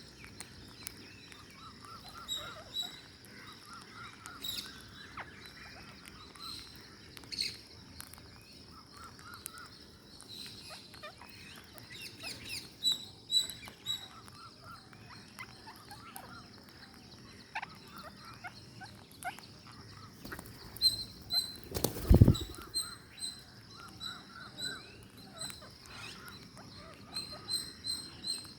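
Ring-necked parakeets chattering in many short chirps and repeated high squeaks, with scattered small clicks. A single loud thump comes about three-quarters of the way through.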